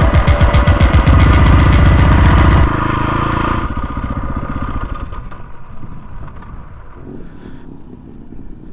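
KTM 450 EXC dirt bike's single-cylinder four-stroke engine running loud with rapid, even firing pulses. The sound drops off sharply a little under three seconds in, then again a second later, and fades away over the rest.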